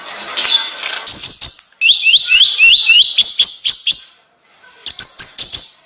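A konin (kolibri ninja) sunbird singing loudly: a quick run of repeated, upward-hooked, whistled notes, then after a brief pause a burst of sharp, high chips near the end.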